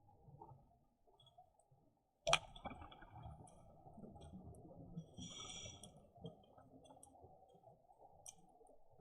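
Underwater sound on a scuba dive: scattered faint clicks and crackles, then a sharp loud click a little over two seconds in, followed by a few seconds of low rumbling and hissing from a diver's regulator breathing and bubbles.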